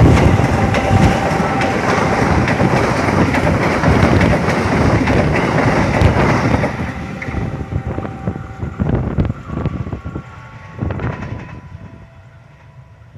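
A train passing at speed through a station: a loud rumble with the clatter of wheels over rail joints, fading after about six and a half seconds to scattered clacks as it moves away.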